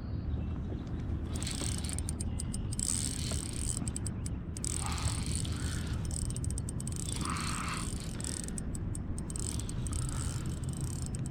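Spinning fishing reel being cranked, a steady geared whirring and clicking as line is retrieved, with a fish on the line.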